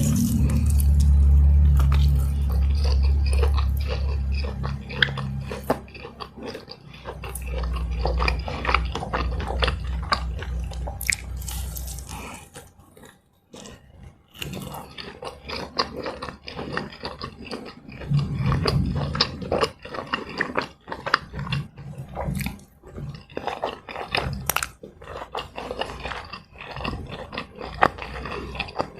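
Close-miked chewing and biting of fried snacks: dense crunchy crackles and wet mouth clicks. A deep low rumble runs under the chewing for the first part, and there is a brief pause a little under halfway.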